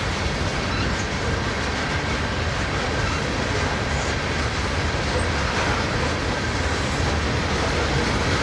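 Freight train tank cars rolling past on steel rails: a steady rumble of wheels on track.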